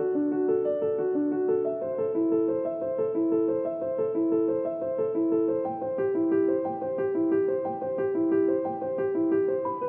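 Background music: a gentle piano playing a flowing, repeating pattern of notes at a steady pace.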